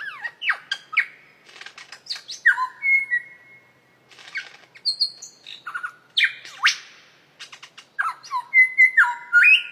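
A bird calling in a varied, busy run: whistled notes held at one pitch, sharp sweeping notes and rapid clicks, one after another.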